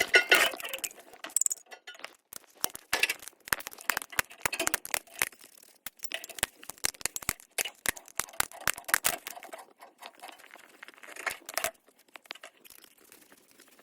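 Quick, irregular clicks and clinks with light rustling: hand work with tools and metal fittings while a garden tap is being replaced.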